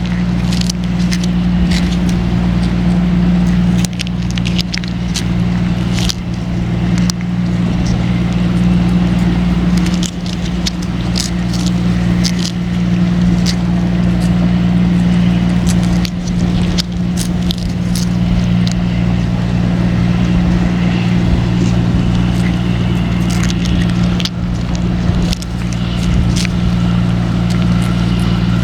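A steady low engine-like hum runs throughout, with many short sharp clicks and crackles scattered over it.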